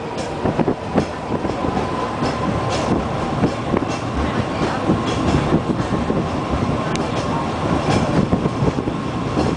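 Peak Tram funicular car rolling downhill on its rails, heard from inside the car: a steady rumble with irregular clicks and knocks from the wheels and track, over a faint steady whine.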